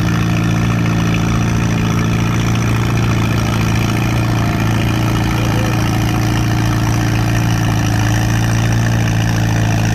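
Allis-Chalmers D12 tractor's straight-piped engine running hard at a steady pitch under load while pulling the sled, a big throaty exhaust note.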